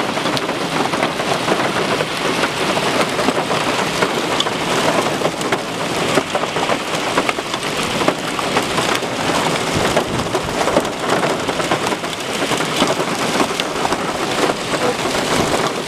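Hail and heavy rain pelting a hard surface: a dense, steady clatter of many small impacts.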